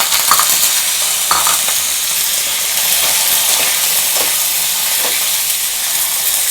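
Chicken liver pieces sizzling in hot oil and spices, having just been added to the pan, with a steady loud hiss. A spatula stirs through them now and then.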